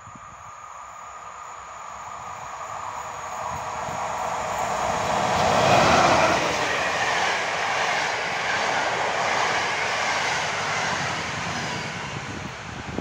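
Electric passenger train, an EP07 locomotive hauling Intercity coaches, approaching and passing. The rush grows steadily louder, is loudest about six seconds in as the train goes by, then holds as a steady rolling rush of the coaches going past.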